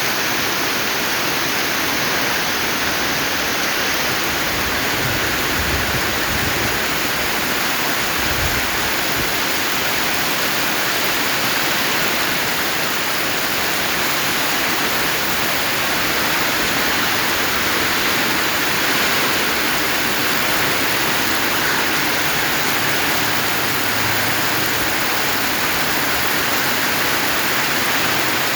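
Very heavy rain pouring down steadily with strong wind, and a few brief low rumbles about five and eight seconds in.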